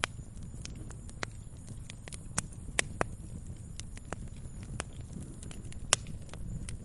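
Wood fire crackling in a fireplace: irregular sharp pops and snaps over a steady low rumble of flame, with two louder pops near the middle and near the end.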